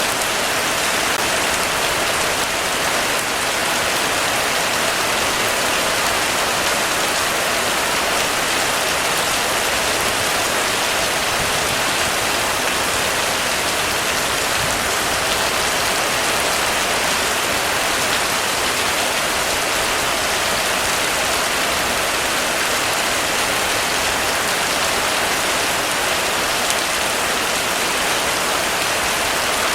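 Heavy rain falling steadily on a roof: a dense, even patter that does not let up.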